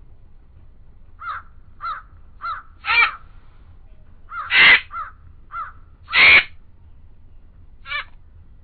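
Birds calling: a series of about nine short calls, each rising and falling in pitch. Three of them, near the middle, are louder than the rest.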